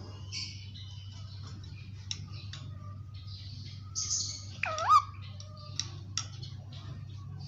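Indian ringneck parakeet chirping and squawking in short calls, with a louder whistled note that swoops down and back up about five seconds in. A low steady hum runs underneath.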